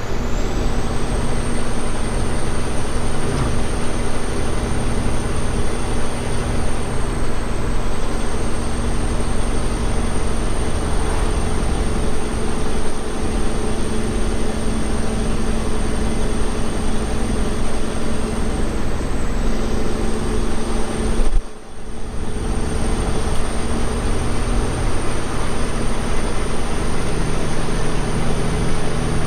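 Semi truck running, a steady engine drone mixed with road noise, with a faint high steady whine above it. The sound dips sharply for a moment about 21 seconds in, then returns.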